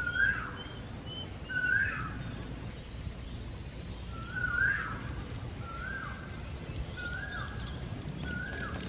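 A bird giving a short whistled call six times, about every second and a half. Each call slides up, holds briefly, then drops. Under it there is a steady low outdoor background rumble.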